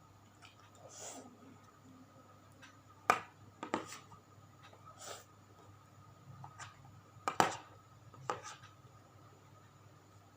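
A person eating tempeh close to the microphone: a few sharp crunches or mouth clicks, the loudest about three seconds in and about seven seconds in, with softer chewing noises between them.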